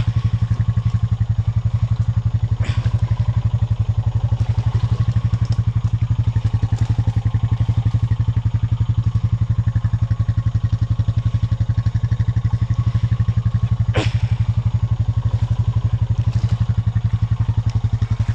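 Honda Rancher 420 ATV's single-cylinder engine idling steadily. Two sharp knocks are heard, one about three seconds in and a louder one about fourteen seconds in.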